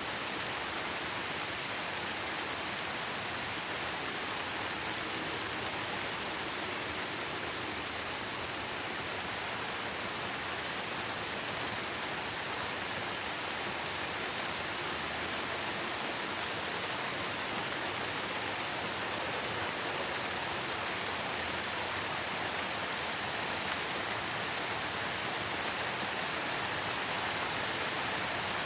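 Steady rain falling, a dense, even hiss of many drops with no change in strength.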